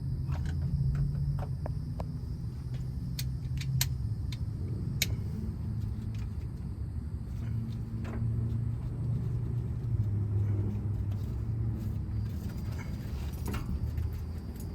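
Steady low vehicle rumble whose pitch drifts slowly, with a few sharp clicks over it.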